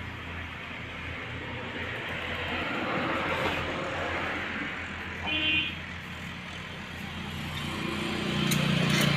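Road traffic going past, with a short vehicle horn toot about five seconds in and a vehicle's engine hum swelling near the end.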